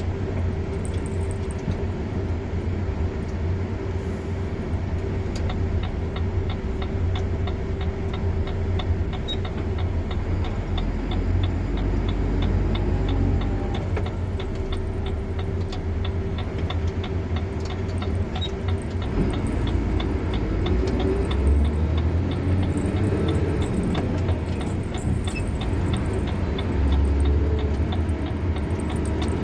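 Car driving along a road: a steady low rumble of engine and tyres. For several seconds in the middle there is a run of fast, even, light ticking.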